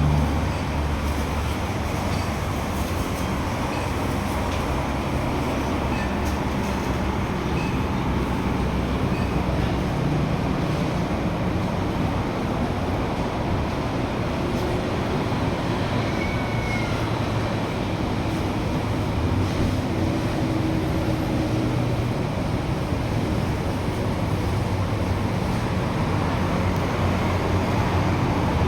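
Steady low rumble and hum of a moving vehicle.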